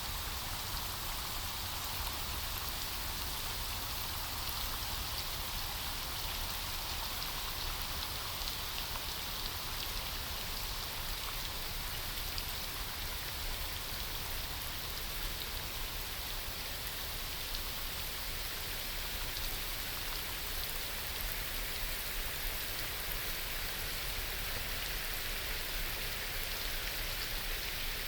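Steady rain falling on forest foliage, a dense even patter of raindrops.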